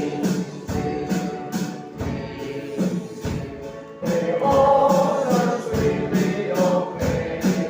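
Group singing of a gospel hymn over instrumental accompaniment with a steady beat; the voices come up stronger about halfway through.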